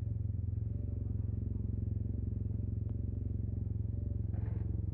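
Yamaha TMAX 560 maxi-scooter's parallel-twin engine idling steadily through an Akrapovic carbon full exhaust system. A brief hiss comes near the end.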